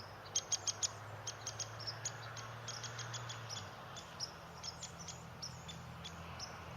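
Woodpecker calling: a series of short, sharp high call notes, a quick run of three or four about half a second in, then single notes more spaced out.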